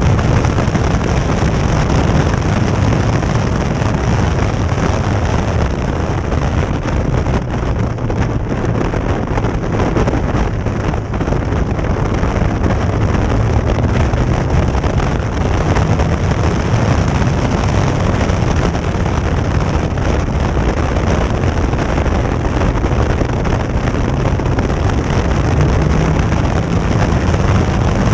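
Caterham Seven engine running at racing speed, its revs rising and falling through the corners, heard from the open cockpit with heavy wind buffeting on the microphone. The car is on a wet track.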